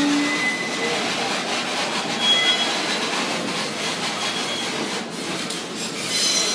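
Passenger train coaches rolling slowly alongside a station platform, a steady running rumble with a few short, high wheel squeals.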